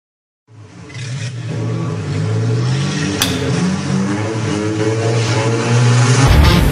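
Car engine revving, fading in after a moment of silence with its pitch climbing, and a sharp click about three seconds in. Music with heavy bass comes in near the end.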